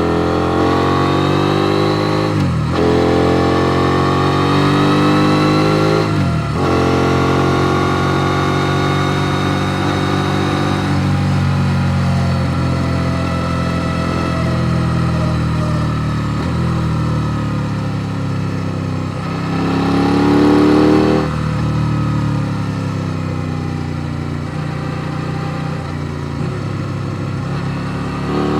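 KTM Duke 890 R's parallel-twin engine under way, revs climbing and dropping sharply at two upshifts about two and a half and six and a half seconds in. It then runs mostly steady on part throttle, with another rev rise and drop a little after twenty seconds.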